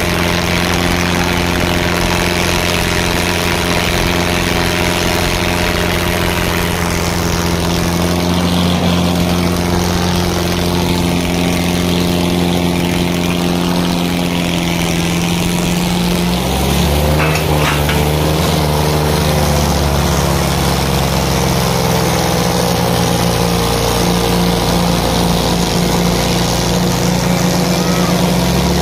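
Diesel tractor engine running hard at steady revs. About halfway through, its note drops and then wavers up and down.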